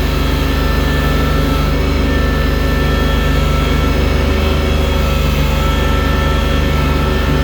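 Engine of a loader working a front bucket, running steadily at a constant speed while it moves deep snow.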